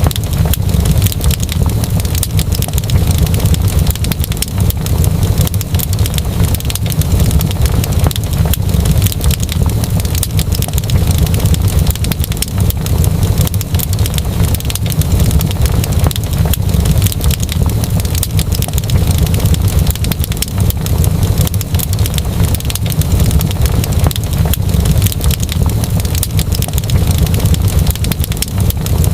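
Wood fire crackling, with many small pops over a steady low rumble.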